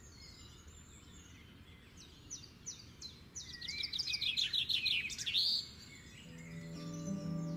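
A songbird singing: scattered chirps, then a fast run of rapidly repeated sweeping notes about halfway through, over a faint outdoor hiss. Soft sustained music comes in near the end.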